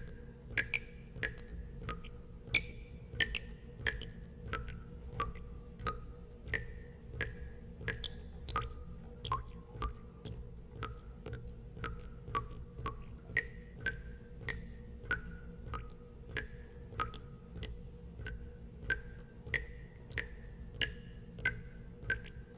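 Water drops falling into water one after another, about one or two a second at uneven spacing, each a short plink at a slightly different pitch, over a steady low hum.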